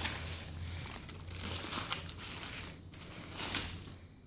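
A food wrapper being crinkled and pulled open by hand around a quesarito: irregular crackling and rustling, with a louder crinkle about three and a half seconds in.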